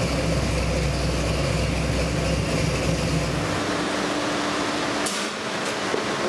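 Ford 347 stroker small-block V8 running on an engine dyno, a steady low rumble that cuts out about three and a half seconds in. A steady rushing noise carries on after it, and a sharp click comes about five seconds in.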